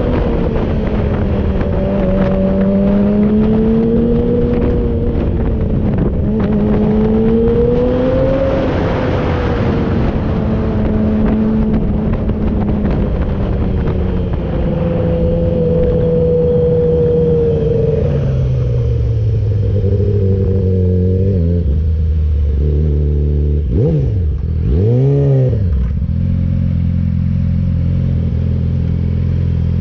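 Yamaha R6 inline-four sport bike engine running on the move with rushing noise, its pitch wavering with the throttle. About two-thirds through it slows and drops to a steady idle, with one quick throttle blip that rises and falls near the end.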